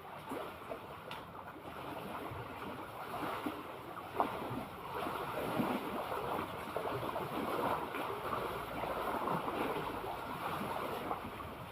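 Seawater lapping and splashing in an uneven rush, with a single sharper knock about four seconds in.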